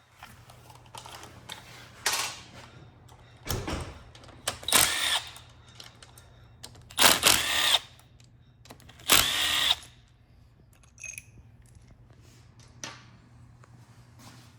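Power drill-driver running in about five short bursts, each around half a second long, as bolts are run out during a transmission teardown; a few faint clicks follow.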